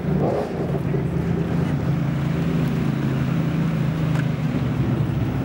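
A car engine running steadily at low revs, a constant low-pitched engine note.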